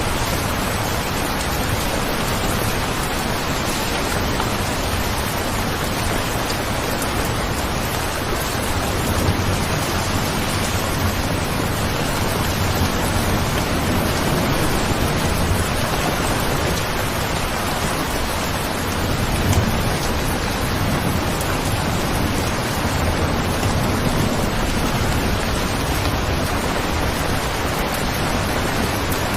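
Steady rain falling: an even, unbroken hiss with a low rumble underneath and slight swells now and then.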